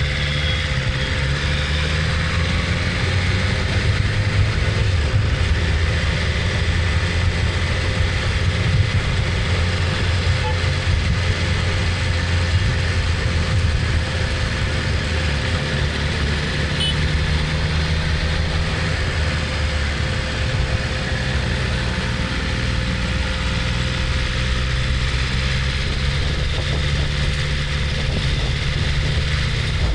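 BMW S1000RR's inline-four engine running steadily at low revs, with a shift in its pitch about halfway through.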